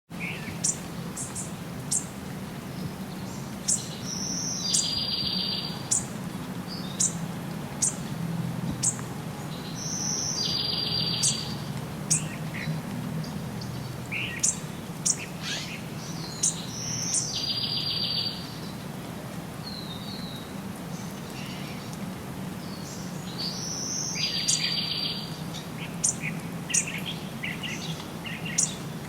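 Songbirds chirping, with many short sharp high chirps and one bird repeating a short rapid trill about every six to seven seconds. A steady low background rumble runs under the birdsong.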